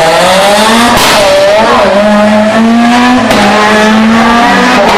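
Rally car engine running hard at high, nearly steady revs, loud and close, with short sharp breaks about a second in and again a little after three seconds.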